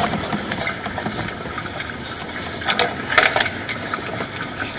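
Sewer inspection camera's push-cable reel being worked as the camera is fed down a drain line: a steady mechanical rattle with scattered clicks, a few louder ones about three seconds in.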